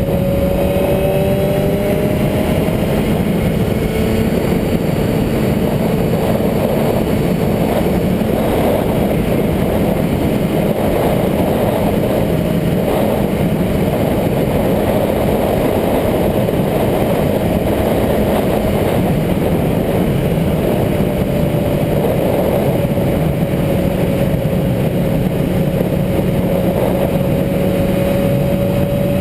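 Motorcycle engine running steadily, its pitch drifting slightly up and down, over a constant rushing noise.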